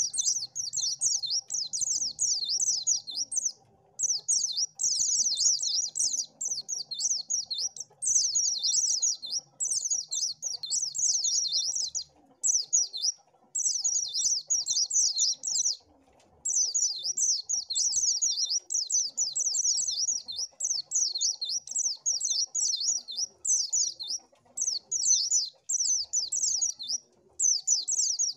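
White-eye (pleci) singing a fast, high, twittering warble in repeated phrases of one to three seconds, with short pauses between them.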